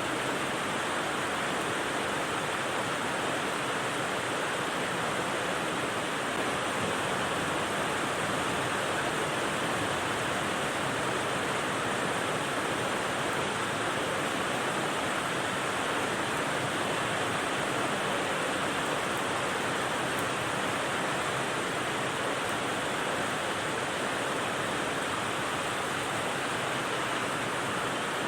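Steady rain falling: a constant, even hiss with no single drops, thunder or other events standing out.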